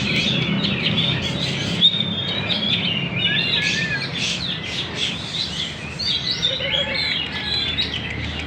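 Murai songbirds singing busily: rapid overlapping chirps and short whistled phrases, over a steady low hum.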